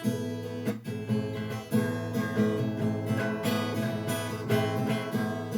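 Acoustic guitar played by strumming and plucking chords, a steady instrumental introduction with no voice.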